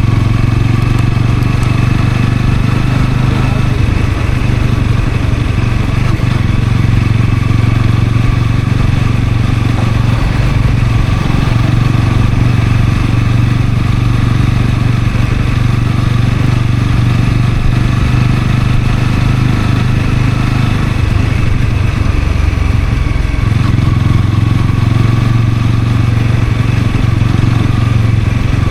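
Honda CL250 single-cylinder engine running steadily while riding, with wind noise over the microphone; the engine note wavers for a couple of seconds about three-quarters of the way through.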